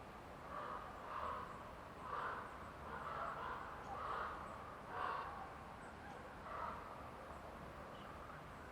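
A crow cawing, a run of about seven calls in the first seven seconds, over a steady faint background of forest ambience.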